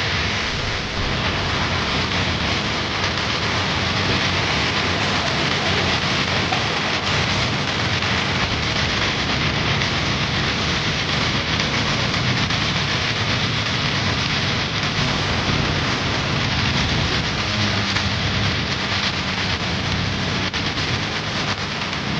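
A loud, steady rushing noise with a low rumble underneath, like a heavy rain and thunder sound effect.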